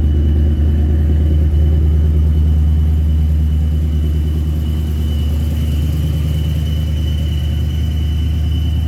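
2006 Ford Mustang engine with aftermarket Detroit Rocker camshafts idling after a cold start, heard through Flowmaster Force II axle-back mufflers as a steady low exhaust rumble. It eases slightly about three seconds in.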